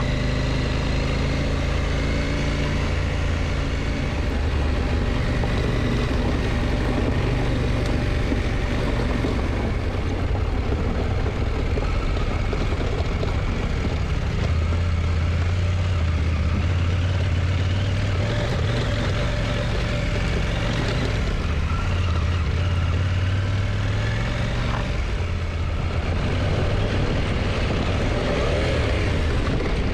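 KTM motorcycle engine running under way, its low note steady and shifting in pitch a few times, over a constant rush of noise.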